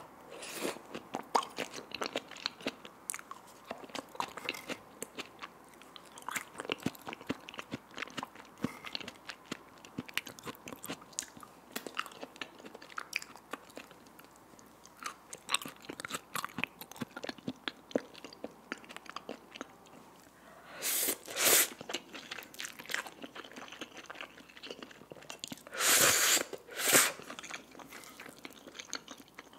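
Close-miked mouth sounds of chewing raw salmon sashimi: many small wet clicks and smacks in quick succession, with a few brief, louder rushing noises near the end.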